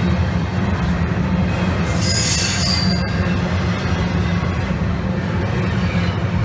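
Train rolling past with a steady heavy rumble and a brief high-pitched wheel squeal about two seconds in.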